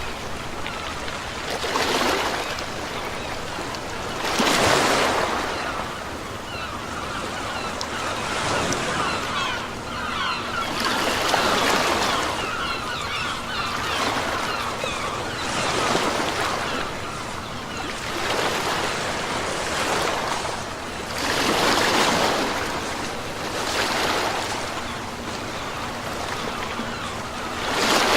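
Sea waves breaking and washing up the shore, a surge swelling and falling back every few seconds over a constant fizzing wash of water.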